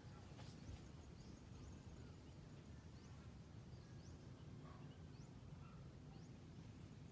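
Faint outdoor ambience: a steady low rumble with faint, short, high rising chirps from small birds about once a second.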